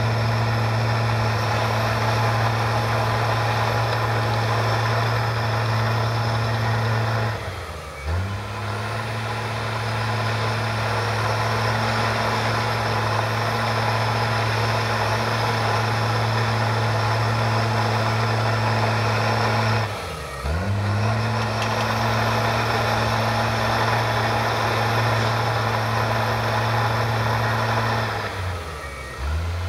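Komatsu bulldozer's diesel engine running steadily under load while pushing sawdust. Three times its pitch sags briefly and then climbs back up.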